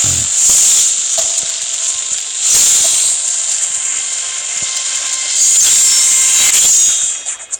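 Beyblade spinning-top battle sounds: a ratcheting launch and a hissing, grinding whir of tops spinning and clashing. The whir swells three times, and the last swell fades out near the end.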